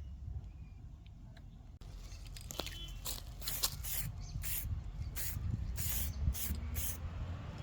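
Aerosol spray-paint can sprayed in a series of short bursts, about eight over four seconds, over a low background rumble.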